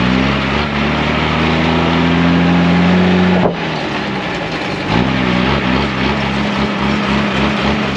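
Unimog truck's diesel engine pulling under load, its note climbing for about three seconds, dropping suddenly, then rising again and holding steady. Over it a constant rattle and road noise from the truck driving on a corrugated dirt road.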